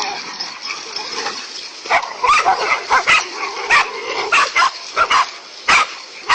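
A pack of dogs barking and yelping excitedly while fighting a large snake. After a quieter moment at the start, rapid sharp barks and yips come several times a second.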